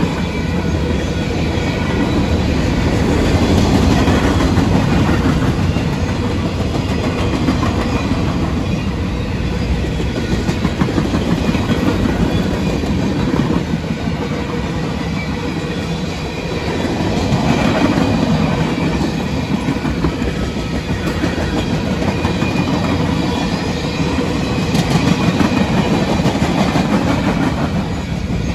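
Freight cars of a mixed freight train rolling past at speed: a steady rumble of steel wheels on rail with rhythmic clickety-clack over the rail joints, swelling and easing a little as the cars go by.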